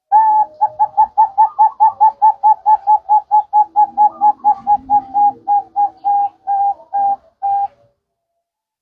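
Zebra dove (perkutut) cooing: a long run of short, evenly pitched coos, quick at first and spacing out toward the end before stopping.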